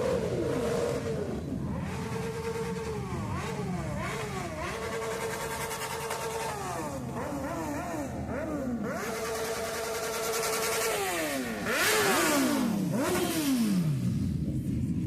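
Motorcycle engine revved hard again and again. Its pitch is held high for a second or two at a time, drops and climbs back in quick blips, and near the end falls away in long drops as the throttle is released.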